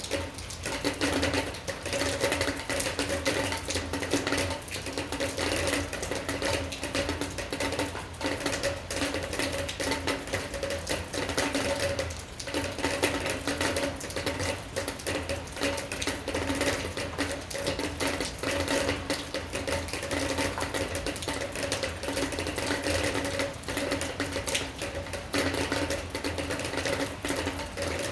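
Rain falling steadily on a hard surface: a dense, fast, irregular pattering of drops with a steady low hum underneath.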